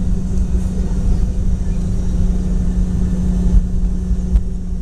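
Cabin noise aboard a Boeing 717 rolling on the ground after landing: a steady low rumble with a constant hum and a few small bumps from the landing gear.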